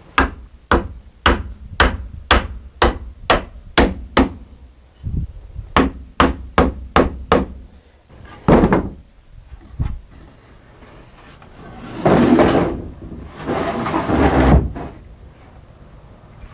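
Hammer blows driving a wooden 2x4 brace tight into place under a shelf: a steady run of about nine strikes at roughly two a second, a short pause, then a quicker run of about six more and a few single knocks. Near the end come two longer rough noises of the wood being shifted.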